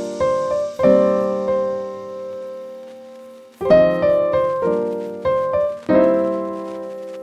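Solo piano background music, slow chords and notes ringing out, with a pause in playing from about 1.5 to 3.5 s while the notes die away.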